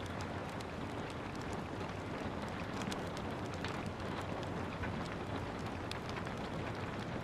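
Steady rain falling, with a wood fire crackling over it in frequent small, sharp pops and snaps.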